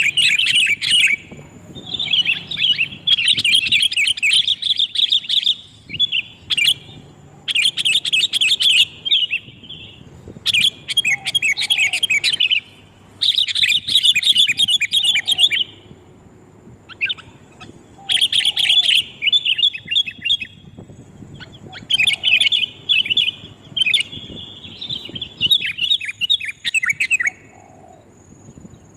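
Sooty-headed bulbuls (kutilang) calling loudly and busily. Rapid chattering phrases of a second or two repeat with short pauses between them, as on a bulbul lure-call track.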